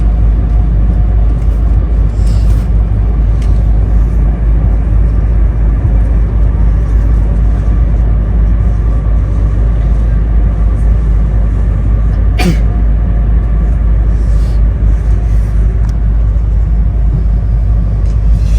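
Running noise inside a car of an E2 series 1000 Shinkansen: a steady deep rumble from the wheels and track, with faint steady tones on top. A single sharp click comes about twelve seconds in.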